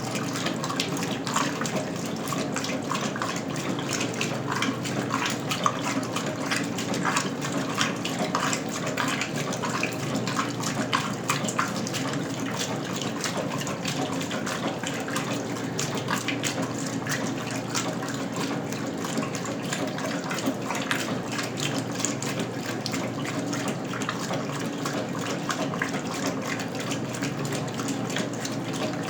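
Water running and splashing steadily in the tub of a 1977 Westinghouse washing machine, over a steady low hum.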